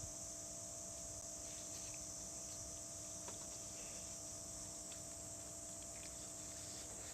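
Steady chorus of night insects, a continuous high-pitched buzz, with a few faint ticks scattered through it.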